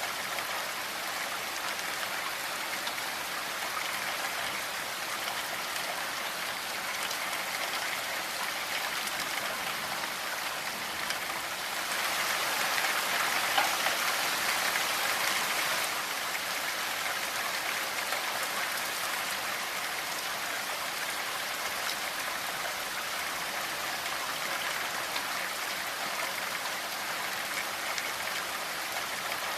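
Steady rainfall, an even hiss of many drops, swelling louder for a few seconds near the middle.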